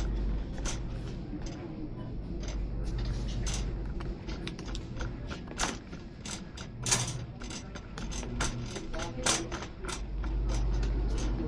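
Busy supermarket sounds: many irregular clicks, knocks and rattles, like goods and store equipment being handled and moved, over a low hum that comes and goes.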